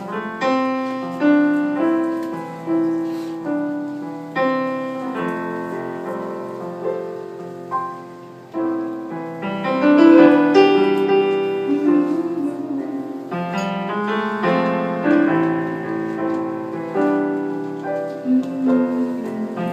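Piano playing a song's introduction: chords and melody notes struck one after another, each ringing and fading.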